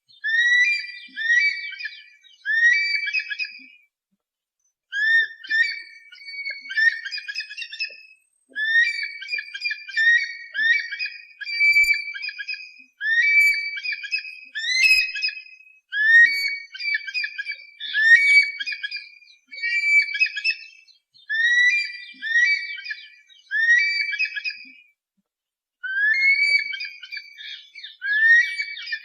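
Raptor calls played as a pest-scaring recording: high whistled calls repeating about once a second, with short pauses about four seconds in and near the end.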